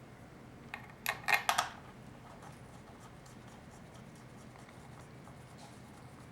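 A quick cluster of sharp clicks and scrapes about a second in, from tools and transmission pump parts being handled at the bench; otherwise faint steady room noise.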